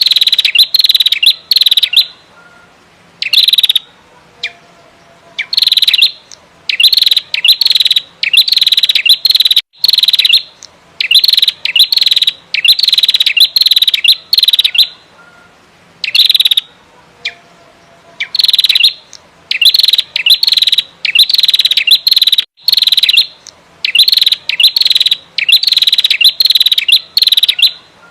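Female prenjak merah calling loudly and rapidly: short bursts of sharp, fast repeated high notes, coming in runs with brief pauses between them.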